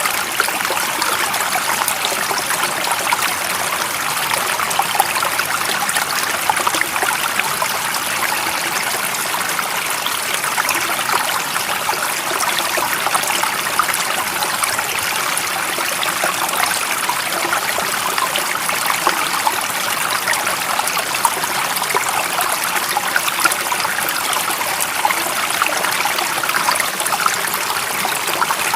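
A stream of water running steadily over rocks, a continuous babbling and trickling rush with no pauses.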